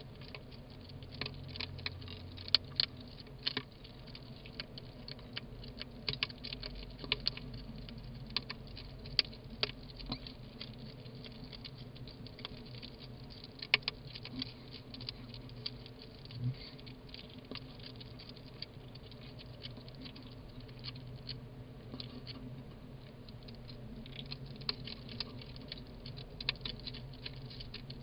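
Two hedgehogs chewing and crunching food: a stream of irregular small clicks and smacks, with a few louder crunches in the first half.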